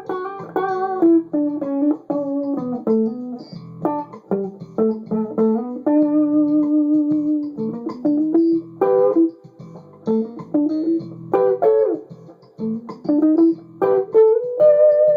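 Electric guitar, a rebuilt Fender Duo-Sonic, played on its neck pickup in humbucker mode: phrases of single picked notes. A long held note comes about six seconds in, and string bends bend the pitch around nine and twelve seconds in.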